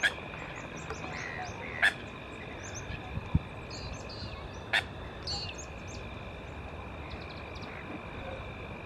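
Open-air lakeside ambience with many short, high bird chirps over a steady hiss and a faint steady high whine. A few sharp clicks come about two and five seconds in.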